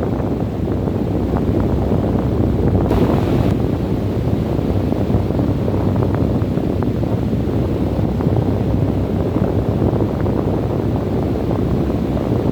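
Wind blowing steadily, a low rumble buffeting the microphone.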